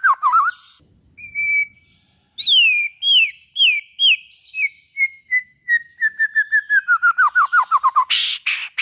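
White-rumped shama (murai batu) singing: clear downslurred whistles starting about two seconds in, quickening into a rapid run of notes that drops steadily in pitch, with loud harsh notes at the start and near the end.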